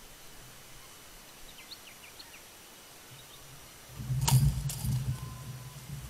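A crow caught in a wire Larsen trap, flapping and struggling against the cage: a sharp knock a little after four seconds in, then irregular dull thumps. Before that there are a few faint distant bird chirps.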